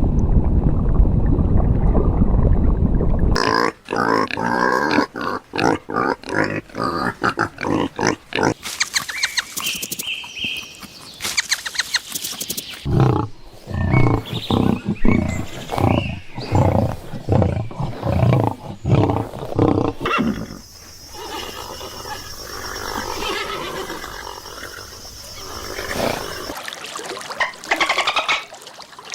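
Farm animals calling in a string of edited clips: a loud, low sound for the first three seconds or so, then many short calls in quick succession, then a softer, steadier stretch.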